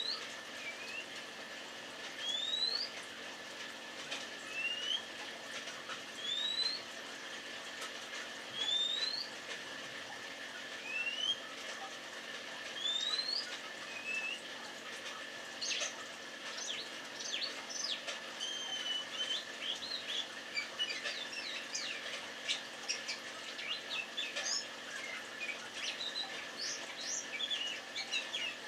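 Male Oriental magpie-robin calling to a female: a clear rising whistle repeated about every two seconds, then, about halfway through, a rapid, varied song of short notes.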